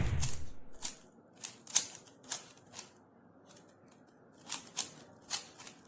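Plastic Rubik's cube being twisted: irregular clicks and clacks from its layers turning, some in quick clusters. A short low rush fades out in the first second.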